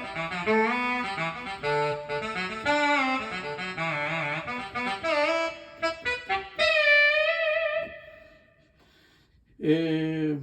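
Korg M1 saxophone sample played on a Medeli AKX10 keyboard: a melodic phrase of bending, sliding notes that ends on a long held note with vibrato, fading away about eight seconds in. A short pitched sound follows near the end.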